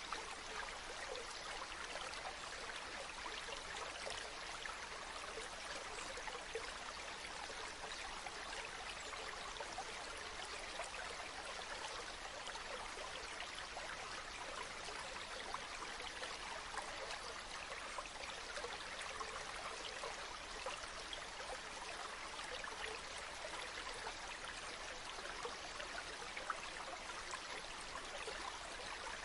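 Flowing water running steadily, an even, unbroken rush with fine splashy detail and no change throughout.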